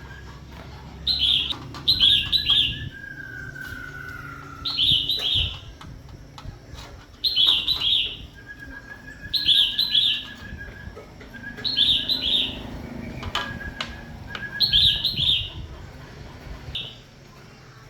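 A songbird singing the same short chirping phrase again and again, roughly every two to three seconds, with thinner held whistled notes in between, one of them sliding downward. A low rumble underneath cuts out near the end, and there are a few sharp knocks.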